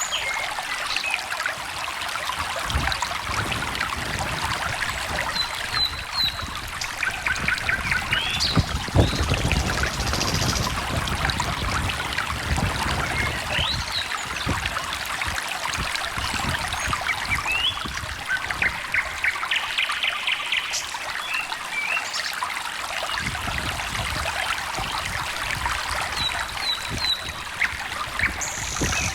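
A small stream trickling and babbling steadily, with scattered short bird chirps and brief trills over it.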